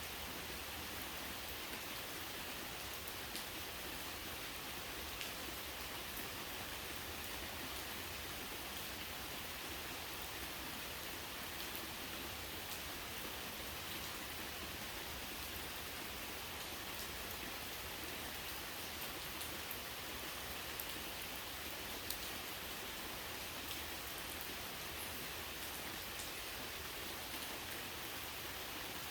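Steady rain falling, an even hiss with scattered single drops ticking sharply on a surface.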